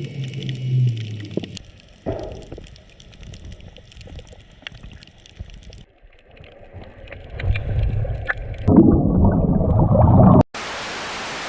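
Water bubbling and gurgling with scattered clicks, growing louder and rumbling about three quarters of the way in. It cuts off suddenly and gives way to a steady hiss.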